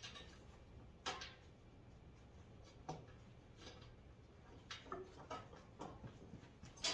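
Light clicks and knocks of tool rack parts and screws being handled and fitted together by hand, a few scattered taps over a faint steady background hum.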